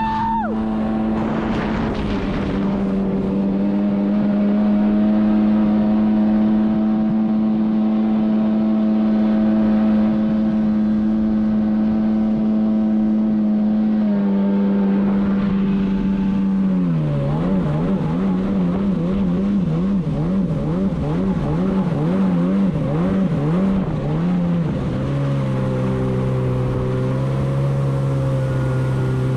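Sea-Doo jet ski engine running hard at steady high revs, its pitch then wavering quickly up and down for several seconds before settling at lower revs near the end.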